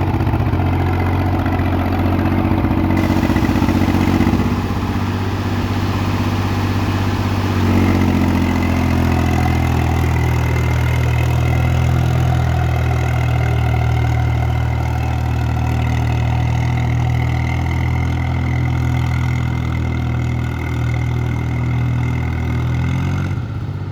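Swaraj tractor's diesel engine running steadily. Its note shifts a little about four and eight seconds in, and again near the end.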